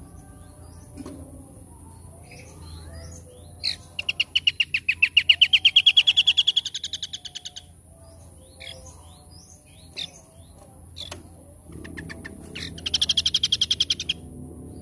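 Small songbird singing: a loud rapid trill of about eight notes a second that rises in pitch over several seconds, short chirps in between, and a second shorter trill near the end.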